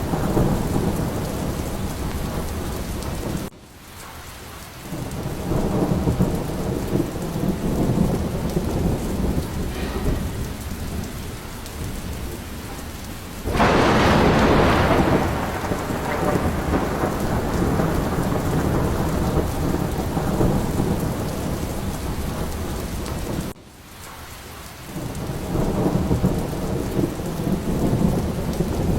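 Steady heavy rain with rolling thunder, and one loud, sharp thunderclap about 14 seconds in. Twice, near 4 and 24 seconds, the sound drops away abruptly, then the rain and rumbling swell back.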